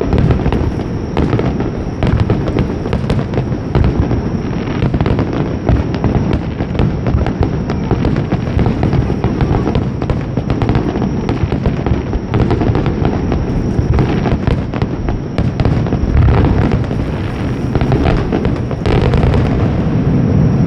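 Aerial fireworks display: a dense, continuous barrage of shell bursts and crackling, the booms overlapping with no break.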